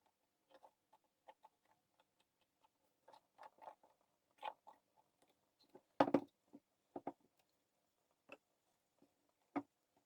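Palette knife scraping and tapping texture paste through a stencil: a scatter of small clicks and scrapes, with a louder cluster of knocks about six seconds in.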